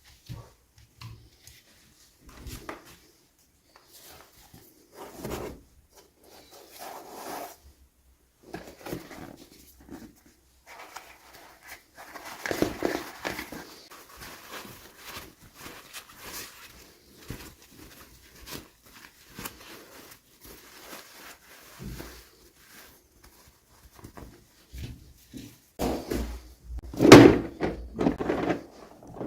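Hands unboxing and handling miniature toy dolls and their plastic packaging: scattered clicks, rustles and light knocks, busiest midway and loudest in the last few seconds.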